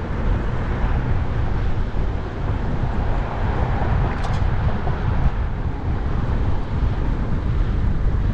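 Steady low rumbling noise of riding an electric scooter through traffic: road and wind noise on the microphone, with passing cars.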